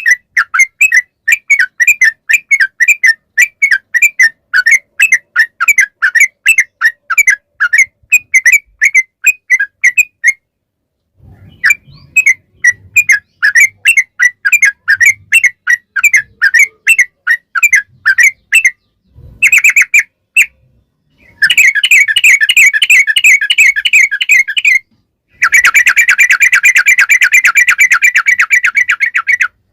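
Yellow-vented bulbul (trucukan) singing: quick bubbly notes repeated about four to five times a second, broken by short pauses. Past the middle the notes run together into fast continuous rolling trills, the long 'ropel' song used to provoke other trucukan into answering.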